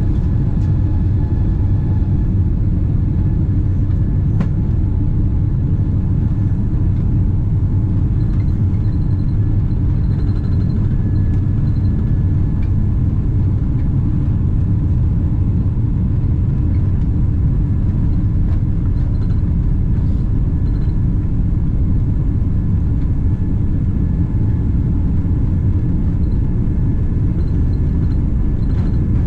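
Steady low rumble inside the cabin of a Boeing 777-300ER in flight or on its departure run: the GE90-115B turbofans and the airflow past the fuselage, with faint steady tones above the rumble.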